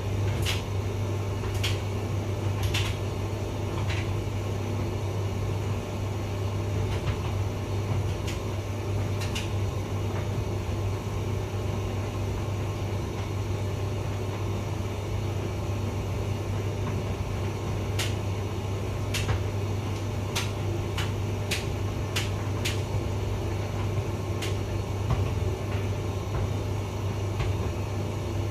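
Hotpoint vented tumble dryer running: a steady hum from the motor and turning drum, with scattered sharp clicks throughout.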